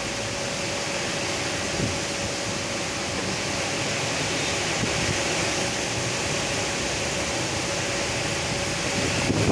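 Heavy rain and wind, a steady even hiss, with a faint steady hum underneath.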